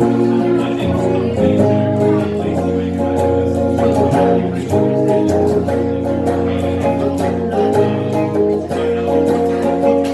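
Acoustic guitar strumming chords in a live performance of a song, with the chords changing every second or so.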